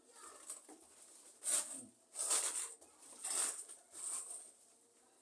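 Four short rustling scrapes about a second apart, from soil and plant material being handled while a houseplant is repotted.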